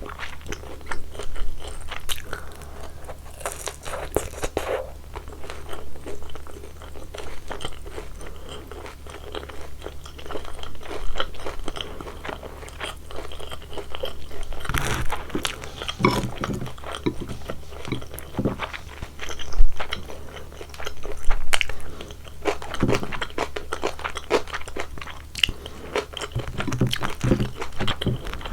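Close-miked bites into and chewing of crispy deep-fried glutinous-rice sweet and sour pork in sauce, with irregular crunching and louder bursts of crunches now and then.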